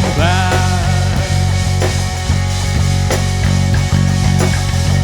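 Rock band playing an instrumental passage of a song: a heavy, steady bass and drums with evenly spaced hits, and guitar, with a short sliding note just after the start.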